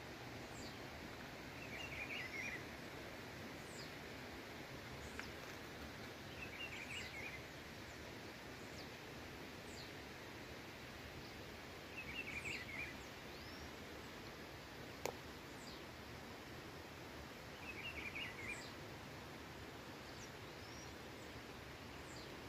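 Wild birds calling in hillside scrub forest: a short chattering call comes four times, about every five seconds, with thin high chirps in between, over a faint steady outdoor hiss. One sharp click sounds about two-thirds of the way through.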